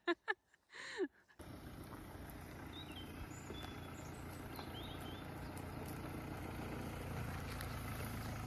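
Outdoor ambience: a steady low rumble and hiss that grows slowly louder, with a few faint bird chirps a few seconds in. It is preceded by a couple of short clipped voice fragments in the first second.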